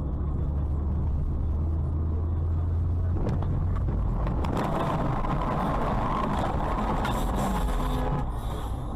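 Car on the road heard from inside: a steady low engine and road rumble, a few sharp clicks about three seconds in, then loud hissing noise from about four and a half to eight seconds.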